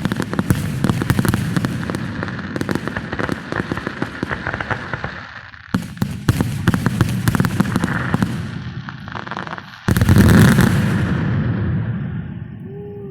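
Fireworks going off: three surges of rapid crackling pops, each starting with a sudden bang, at the start, about six seconds in and about ten seconds in. The last is the loudest and fades away near the end.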